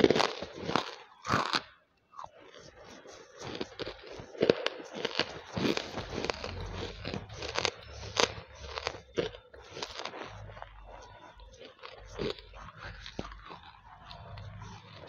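Close-miked crunching and chewing of hard banslochan pieces in the mouth: a run of loud, sharp crunches in the first two seconds, a brief pause, then steady, softer crunching as the pieces are chewed down.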